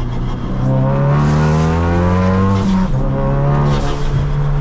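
Turbocharged 2.3-litre four-cylinder of a tuned Ford Focus RS accelerating hard. The pitch climbs for about two seconds, drops sharply at an upshift past the middle, then climbs again.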